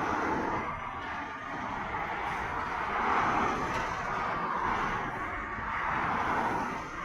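Motorway traffic passing at speed: a continuous rush of tyre and engine noise that swells as vehicles go by, about four times.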